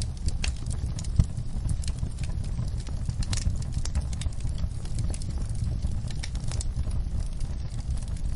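Campfire burning: wood crackling and popping at irregular intervals over a low steady rumble, with one louder pop about a second in.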